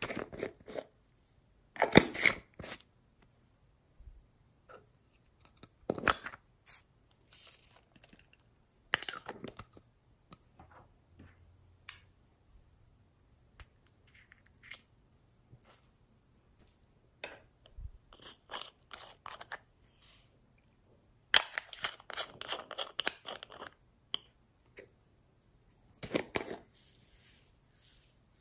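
Slime being squished and pressed by hand, with sticky crackles and crunches in irregular bursts and short quiet gaps between them; the loudest bursts come about two seconds in and again about two thirds of the way through.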